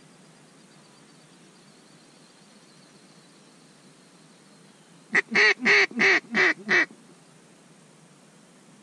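A mallard duck call blown in a quick series of six loud, close quacks in under two seconds, about five seconds in, imitating a hen mallard to draw ducks to the decoys.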